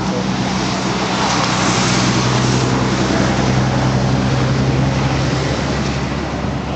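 Road traffic passing: a motor vehicle's engine and tyre noise swell and then fade away, over a steady traffic rush.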